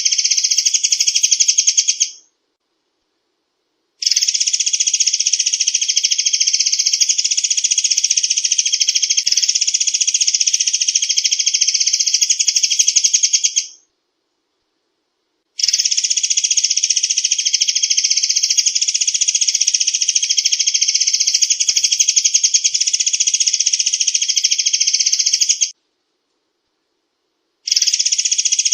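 Recorded murai air song: a very fast, continuous rattling trill of high notes, the rapid-fire "tembakan rentet" call used as a lure, played in long bouts with three short breaks where it cuts off completely.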